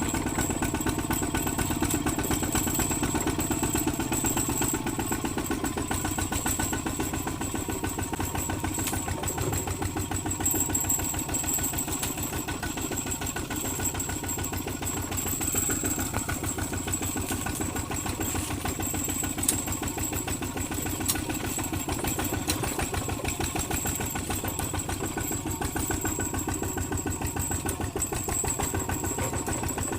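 Kubota ZT155 single-cylinder diesel engine running steadily with a fast, even beat of firing strokes.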